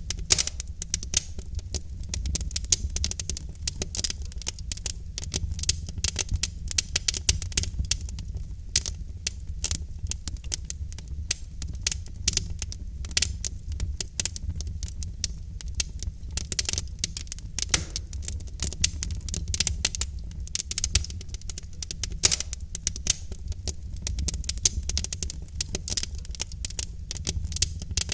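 Logs burning in a fireplace, crackling with dense, irregular pops and snaps over a steady low rumble.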